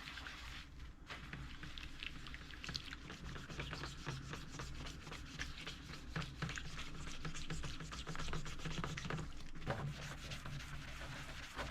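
Steady hand scrubbing of a soaked toaster-oven part, a rapid irregular run of short scratchy strokes, working at stubborn baked-on grease that comes off only slowly.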